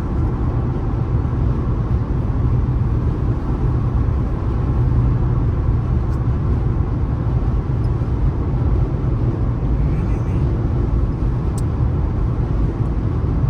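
Car driving steadily, a continuous low rumble of engine and tyre-on-road noise.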